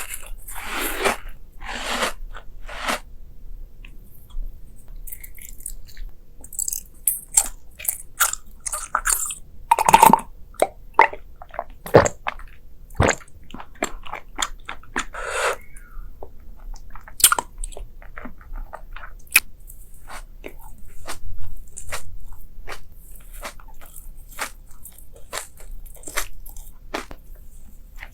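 Close-miked eating of crunchy food: irregular crisp bites and crunching chews, with several louder bites around the middle.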